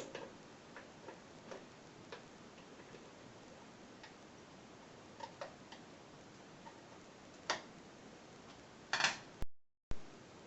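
Scattered light clicks and taps, irregular and a second or more apart, over a faint steady hiss. A louder click comes near the end, then a quick cluster of clicks, then a brief total dropout.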